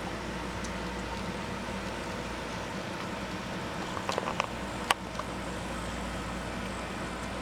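N scale model locomotive running around the layout at low speed, a steady motor hum with a few light clicks about four seconds in and one sharper click just before the five-second mark.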